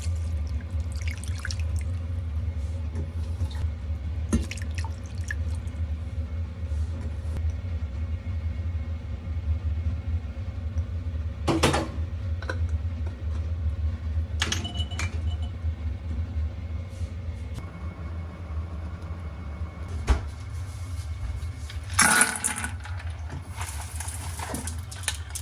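Kitchen cooking sounds over a steady low hum: water and liquid noises, with scattered clicks and a few short louder knocks and clatters.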